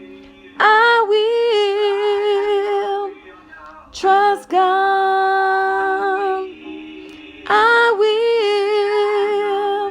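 A woman singing a gospel song a cappella, in three long held phrases with a wavering vibrato, starting about half a second, four seconds and seven and a half seconds in.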